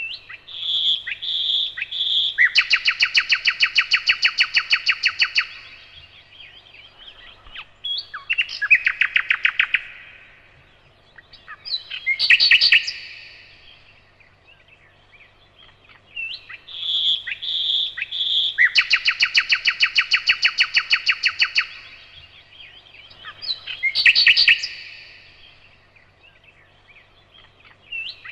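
Nightingale singing loud phrases: a few clear repeated notes, then a long rapid trill, a shorter trill and a loud burst of notes. The same sequence comes again about halfway through.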